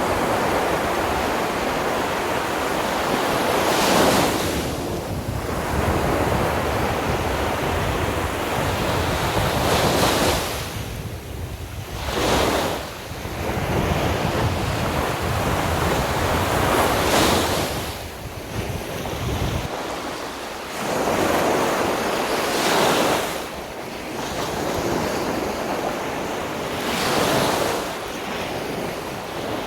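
Sea surf breaking on a beach, a wave crashing about every five or six seconds over a steady wash of water, with wind rumbling on the microphone.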